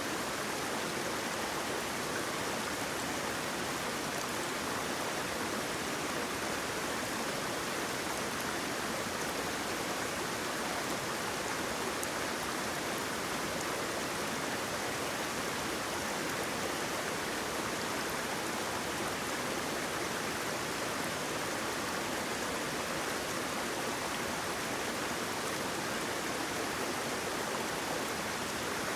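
Waterfall: steady rushing water, an even, unbroken hiss with no splashes or breaks standing out.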